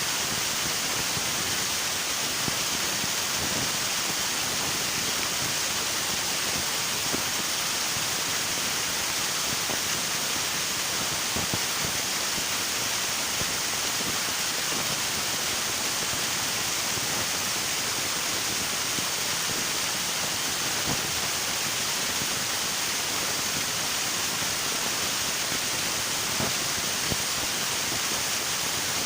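River water rushing steadily over rocks, an even unbroken hiss.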